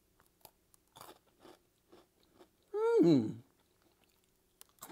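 Crunching and chewing of a crisp sesame breadstick: small, scattered crunches. About three seconds in comes a brief, loud hum of the voice that slides down in pitch.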